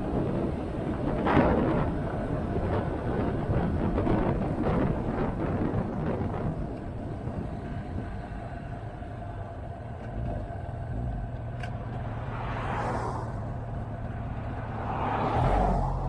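Motorcycle on the move: engine running under a steady rush of wind on the microphone, with two swells of louder noise in the last few seconds.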